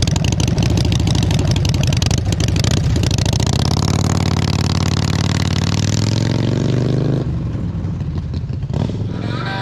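Harley-Davidson Iron 883's V-twin running loud just after start-up; from about three seconds in the revs climb steadily for about four seconds, then drop back sharply, with one short blip of the throttle near the end.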